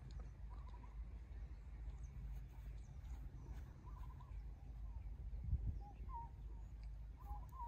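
Birds chirping faintly: short, separate calls in twos and threes, some dropping in pitch, over a steady low rumble.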